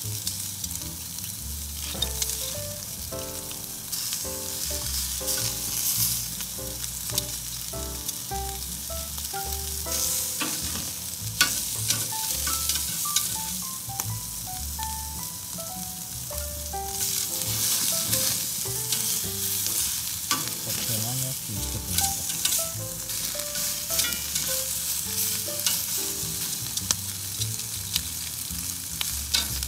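Beef ribeye steaks sizzling on a hot grill grate: a steady frying hiss with frequent sharp crackling pops.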